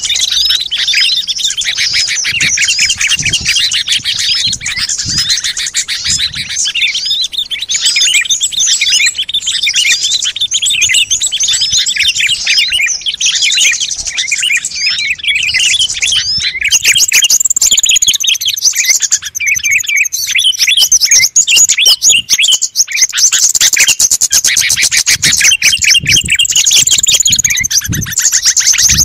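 Dense chorus of many small songbirds chirping and twittering at once, a layered lure recording meant to draw in wild small birds. About halfway through, higher-pitched calls join the mix.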